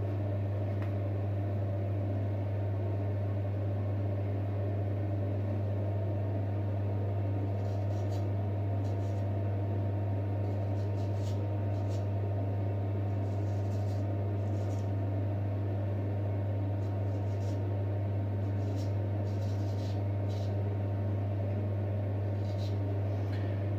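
A steady low electrical hum throughout, with faint, short, irregular scraping strokes of a vintage J. Nowill & Sons straight razor cutting lathered stubble from about eight seconds in.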